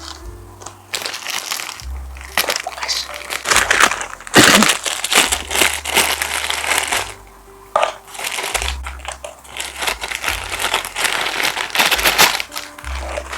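Loud crinkling and crackling handling noises, many irregular strokes close to the microphone, over background music with held bass notes.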